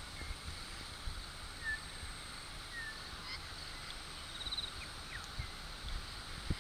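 Faint dusk outdoor ambience with scattered short bird chirps and a brief trill about four and a half seconds in, over occasional low rumbles on the microphone.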